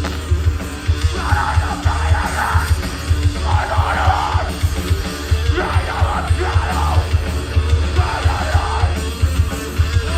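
Hardcore punk band playing live, loud: a vocalist yells four short phrases over heavy, fast-pounding drums and distorted guitars.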